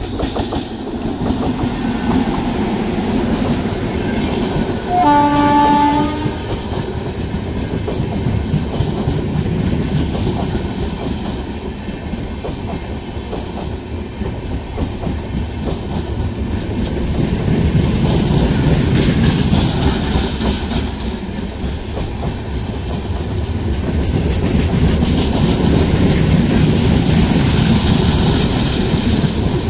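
Passenger coaches rolling past on the rails with a steady rumble and wheel clatter over the rail joints, swelling and easing as the train goes by. About five seconds in, the train's horn sounds one blast of just over a second.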